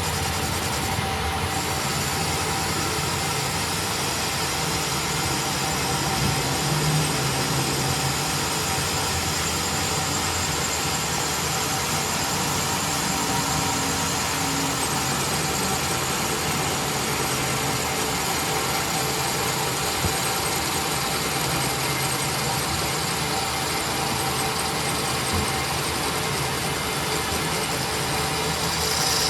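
Steady machine running noise, unchanging throughout, with a faint steady hum in it.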